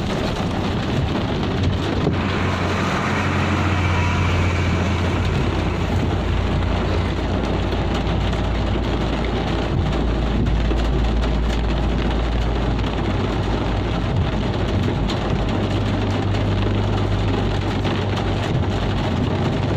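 Heavy rain falling: a loud, steady hiss with a deep, steady rumble underneath.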